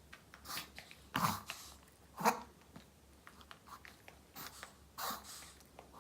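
A Maltese dog's short, noisy breaths in about five separate bursts roughly a second apart, the loudest a little over two seconds in, with faint mouth clicks between them. The owner takes this for a reverse-sneezing fit in which the dog struggles to breathe.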